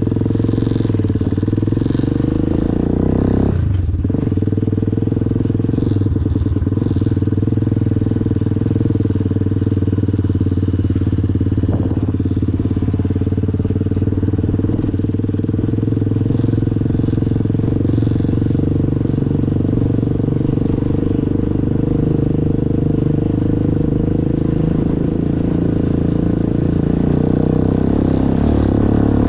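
Motorcycle engine running steadily while riding at an even speed, with one brief drop in pitch about three and a half seconds in.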